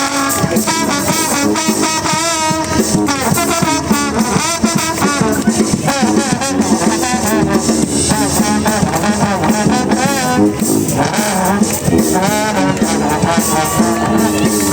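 Brass band playing an up-tempo tune with a trombone solo; the lead line bends and wavers in pitch.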